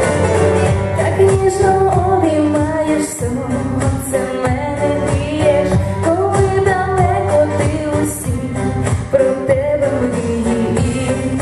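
A woman singing a melodic pop song over instrumental accompaniment.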